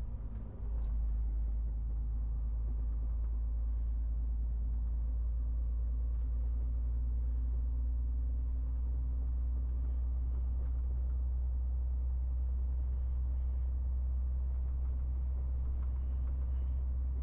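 MAN TGX 18.470 truck's six-cylinder diesel running under way, a steady low drone that steps up in loudness just under a second in and then holds even.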